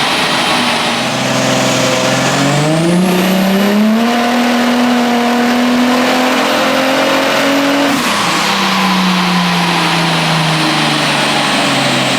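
Turbocharged VR6 engine of a VW Golf R32 running on a dyno: the revs climb steadily under load for about five seconds, with a high whine rising over the engine note, then the throttle closes suddenly and the revs wind down.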